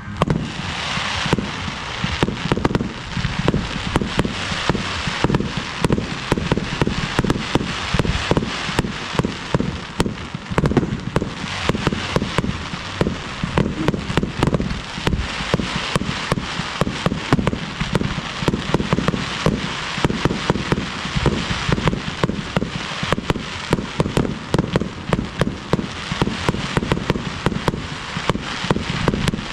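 Fireworks firing in a dense barrage: bangs and crackling reports, several a second, with no let-up.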